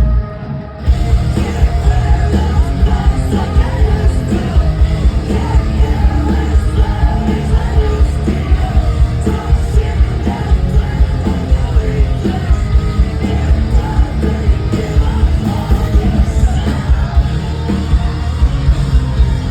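Live rock band playing loud, with pounding drums, distorted guitars and yelled vocals. The sound drops out briefly just under a second in, then the full band carries on.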